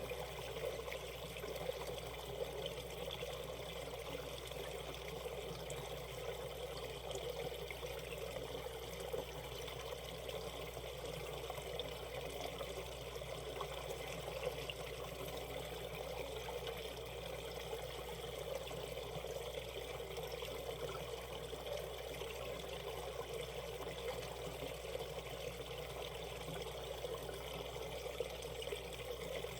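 Shallow valley stream flowing steadily over rocks, a continuous trickling rush of water.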